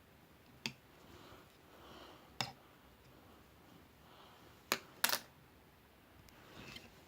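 Four sharp clicks against quiet room noise, spaced a second or two apart, the last two close together and loudest.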